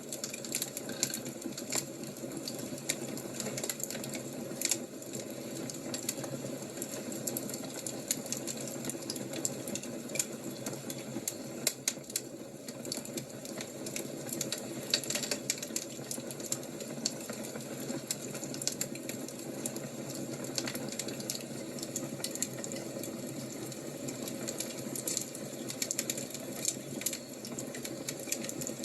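Wood fire crackling: irregular sharp snaps and pops over a steady low rush of flame.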